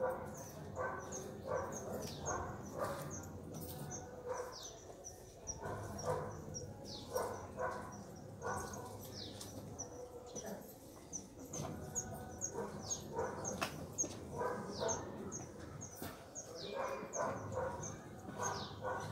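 Birds calling in the undergrowth: short, steeply falling high chirps repeated over and over, roughly two a second, with lower intermittent calls underneath.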